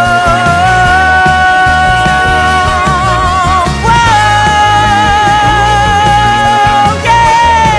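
Rock band playing live: a melody of long held notes that slide up to a new pitch about four seconds in and again near the end, some with vibrato, over a full low backing.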